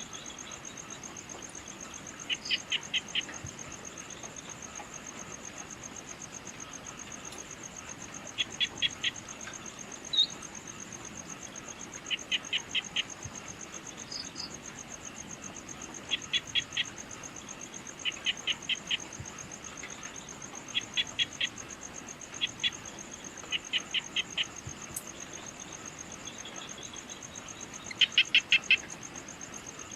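Evening nature ambience: a steady, high-pitched insect trill, over which an animal call of four or five quick notes repeats every few seconds. There are a few single high chirps between the calls, and the loudest call comes near the end.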